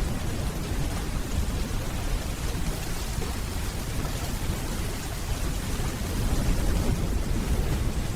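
Steady rainfall with a low rumble of distant thunder underneath.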